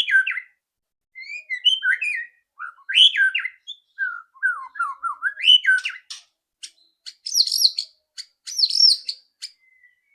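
White-rumped shama singing: loud, varied whistled phrases with short pauses for about six seconds, then a run of sharp ticking clicks and higher, harsher notes, the shama's rattling 'ketrekan'.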